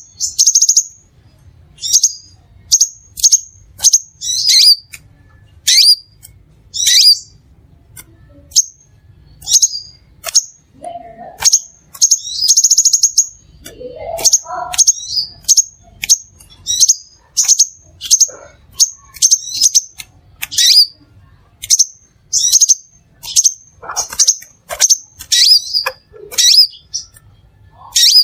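Crimson sunbird calling: a run of short, sharp, high chirps, roughly one to two a second, with brief buzzy trills near the start and about halfway through.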